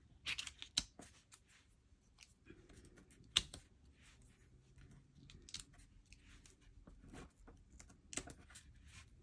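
Scattered small clicks, taps and scratches of a plastic pick tool prying the release-paper backings off foam adhesive dimensionals, with a sharper click a little over three seconds in.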